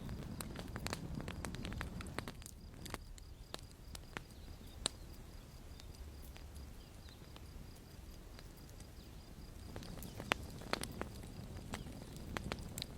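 Campfire burning, wood crackling and popping irregularly over a low rumble of flame, with the sharpest pops about five seconds in and again around ten to eleven seconds.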